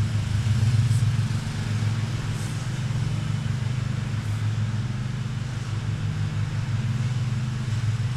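Steady low mechanical hum of an engine or motor running at a constant speed, unchanged throughout.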